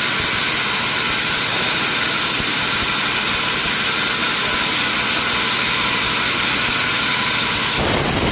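Sawmill machinery running steadily: an even, hissing mechanical noise with a constant hum under it. It changes abruptly near the end.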